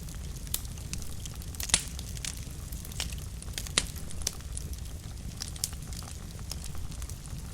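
Wood fire burning in a fireplace: irregular sharp crackles and pops over a steady low rumble of the flames, the loudest pops a little under two seconds in and near four seconds.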